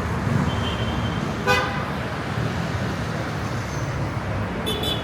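Busy city street traffic with a steady rumble of passing vehicles. A short car horn toot sounds about one and a half seconds in, and a brief high-pitched beep comes near the end.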